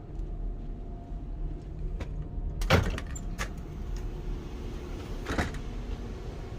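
Automatic sliding door of a KTX train carriage opening with a short hiss about three seconds in, and a weaker hiss near five and a half seconds. A steady low hum from the standing train runs underneath.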